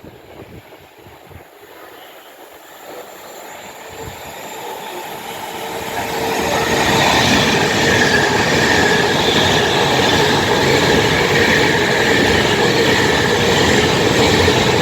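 Class 390 Pendolino electric train passing through the station: the rush of its wheels on the rail builds up over the first six seconds or so, then stays loud and steady, with a few steady high tones over it.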